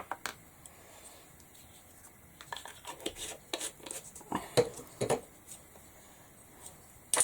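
Light taps, clicks and clinks of paint pots and a paintbrush being handled on a craft table, a cluster of small knocks in the middle with the loudest a few seconds in.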